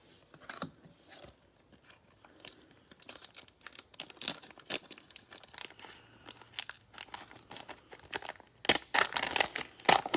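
Cellophane wrapper of a Panini Prizm football cello pack crinkling and tearing as it is opened, in irregular crackles, loudest about nine seconds in.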